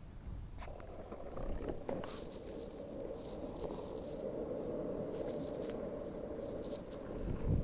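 Wind blowing, with light rattling and rustling clicks and a steady hollow hum that starts about half a second in and dies away near the end.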